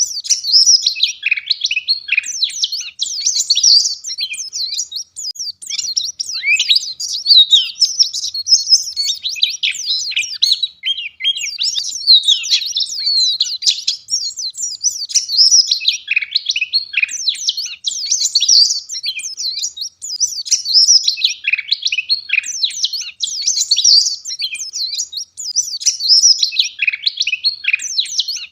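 White-eye (pleci) singing a rapid, continuous, high-pitched twittering song of densely packed chirps and trills.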